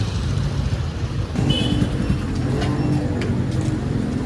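Steady low rumble of a car on the road, with a hum that firms up about a second and a half in and a few light clicks.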